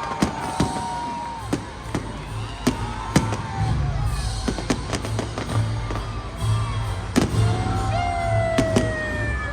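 Fireworks going off in a rapid, irregular series of sharp bangs, over loud music with a heavy pulsing bass.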